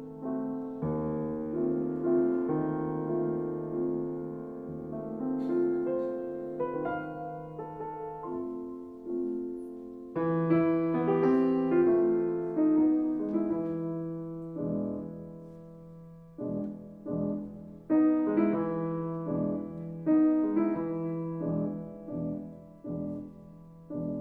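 Solo piano music, slow and sustained, with chords ringing and fading.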